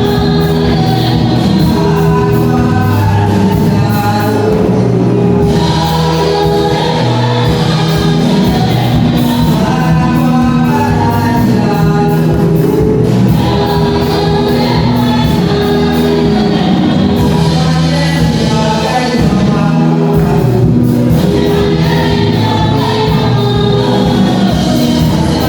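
Gospel choir singing over instrumental backing, loud and continuous.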